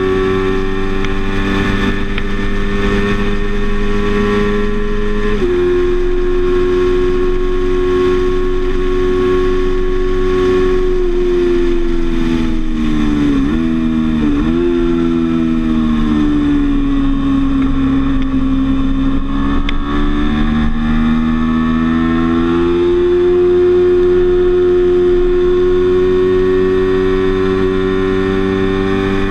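Sport motorcycle engine running at high revs on a racetrack, heard from a camera mounted on the bike. The pitch holds high, steps down a little about five seconds in, then falls with a few quick jerks around the middle as the bike slows into a corner. It sinks lowest through the corner and climbs steadily back up on the way out.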